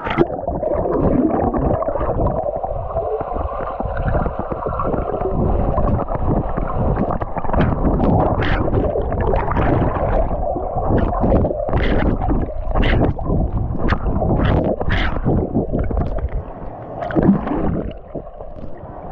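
Muffled water gurgling and sloshing, heard with the microphone under or at the water's surface, with a run of sharper splashes from about eight to fifteen seconds in.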